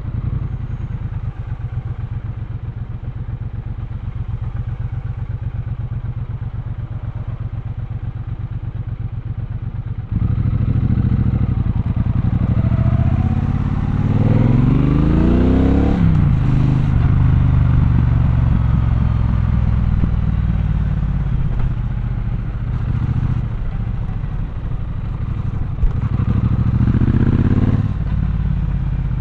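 Triumph Bonneville Bobber's 1200cc parallel-twin engine ticking over at low revs. About a third of the way in it opens up sharply, the revs climbing steeply as the bike accelerates, then it runs steadily under way. Near the end there is a single sharp knock and another short rise in revs.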